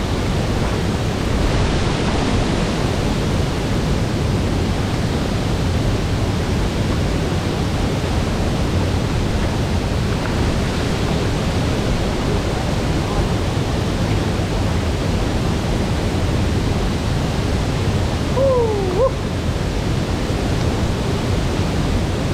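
Steady, loud rush of falling water from a large waterfall. About three-quarters of the way through, a brief tone glides down in pitch.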